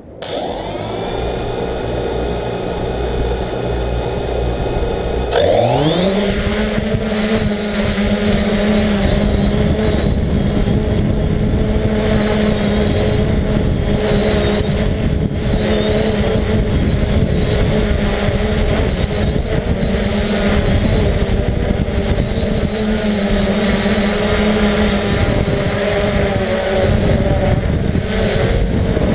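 3DR Solo quadcopter's electric motors and propellers spinning up to idle, then revving sharply about five seconds in as it lifts off, and settling into a steady, loud whirring hum while it flies.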